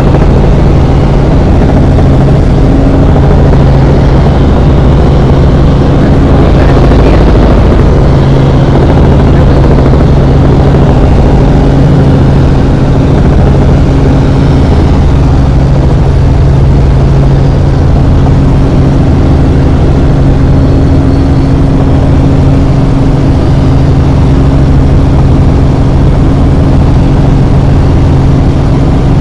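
Helicopter engine and rotor running steadily: a loud, constant drone with a low, even hum.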